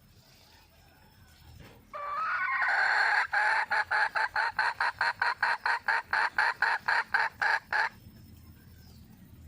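Red junglefowl hen calling: a drawn-out note about two seconds in, then a fast, even run of clucks at about four a second that stops about eight seconds in. A hen's call to draw a cock.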